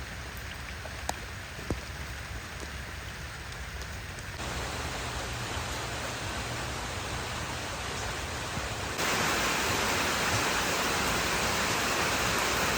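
Heavy rain falling, a steady hiss with a few separate drip clicks in the first two seconds. It grows louder in two sudden steps, about four and nine seconds in.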